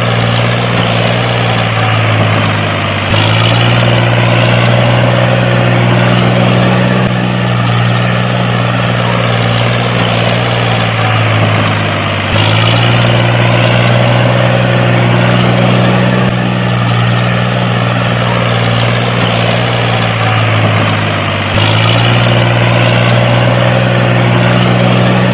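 A steady motor or engine hum with a deep drone. The same stretch of sound repeats about every nine seconds, then cuts off suddenly at the end.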